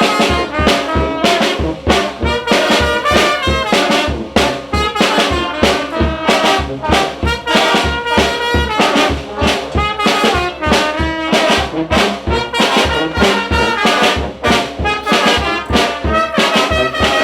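Mexican banda brass band playing a tune: massed brass horns over a steady low beat.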